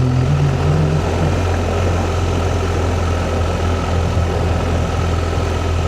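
Motorcycle engine running steadily at a constant speed, a low steady drone, with wind and road noise over it while riding.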